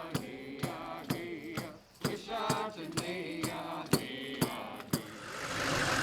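A chanted song over a steady drum beat, about two strikes a second. About five seconds in the song stops and a steady vehicle engine noise rises.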